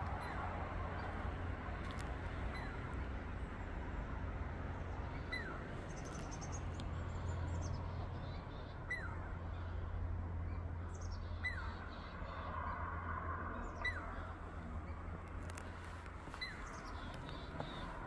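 Wild birds calling: a short falling whistle, repeated about six times a few seconds apart, with higher chirps in between, over a steady low rumble.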